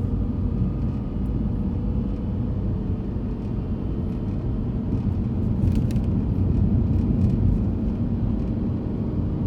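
A steady, loud low rumble that starts abruptly and cuts off suddenly at the end.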